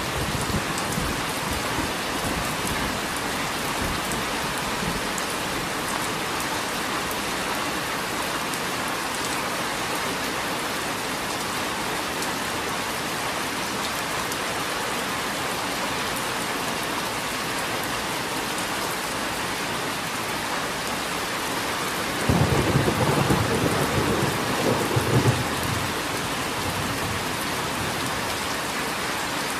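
Steady rain. About three-quarters of the way through, thunder rolls in suddenly and rumbles for about four seconds, peaking twice.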